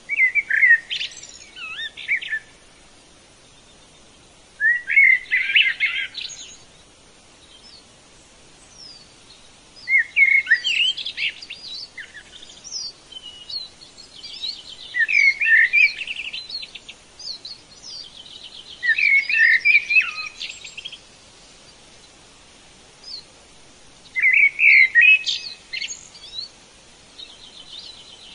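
Bird song: a songbird sings short phrases of quick rising and falling notes, about six phrases spaced four to five seconds apart, over a faint steady hiss.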